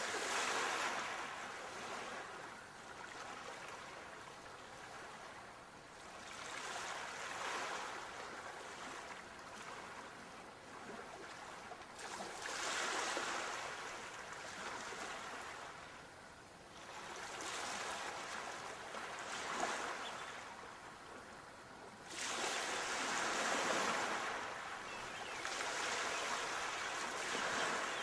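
Sea waves breaking on the shore and washing back, in broad surges about every five seconds. The largest swell comes about two thirds of the way through.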